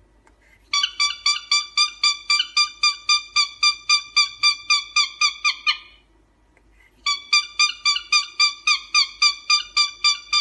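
A young animal's high-pitched chirping calls, about four a second, in two runs with a short pause between them.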